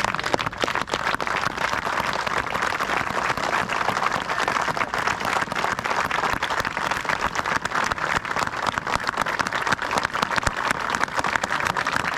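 Crowd applauding: many hands clapping in a steady, sustained round.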